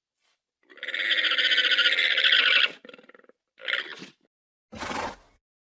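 Alpaca calling: one long pulsed call of about two seconds, then a short call and a brief noisy blast near the end.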